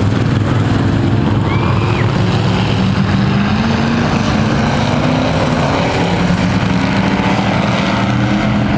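Several thunder-class race trucks running together on a dirt oval at pace-lap speed. Their engine note is steady and loud, drifting slowly up and down in pitch.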